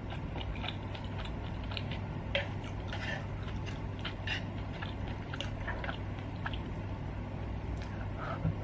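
Close-miked chewing and mouth sounds of someone eating saucy stir-fried meat, with scattered small clicks as wooden chopsticks pick at the pan. A low steady hum runs underneath.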